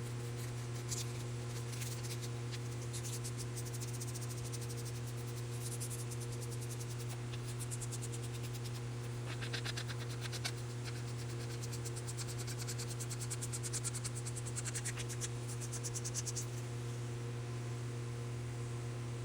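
A steady low electrical or mechanical hum. Over it come stretches of rapid, fine scratching or ticking, like a hand tool being worked, which stop about three seconds before the end.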